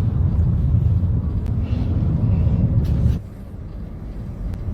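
Steady low rumble of a car driving, road and wind noise, which drops suddenly about three seconds in.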